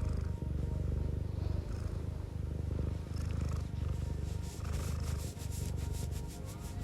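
Domestic cat purring close to the microphone: a steady low rumble that breaks briefly every second or two, with a faint rapid rattle at the top of the sound in the second half.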